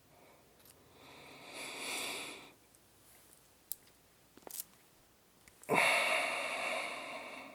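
Two long breaths close to the microphone: the first swells and fades about a second in, the second starts suddenly past the middle and trails off slowly. A couple of faint ticks fall between them.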